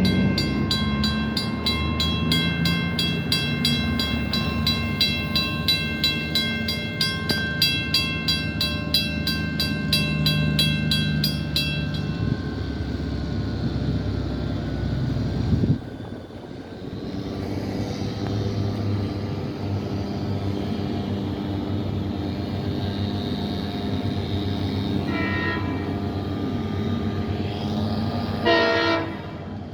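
WCH mechanical crossing bell ringing in rapid, even strokes, about three a second, until it stops about twelve seconds in once the gates are down. A diesel-hauled LIRR double-decker train then rumbles past, with short train-horn sounds near the end.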